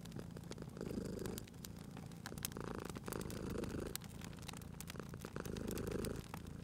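Domestic cat purring in slow swells, one per breath, over the steady crackle and snap of a wood fire.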